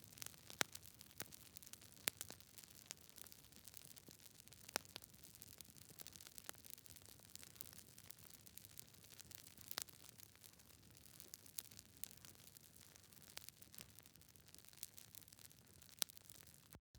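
Wood fire crackling: irregular sharp pops and snaps, some much louder than others, over a faint hiss. The sound cuts out completely for a split second near the end.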